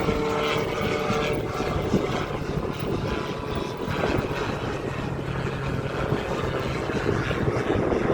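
Aircraft engine running steadily at the airfield, with a few held humming tones in its noise.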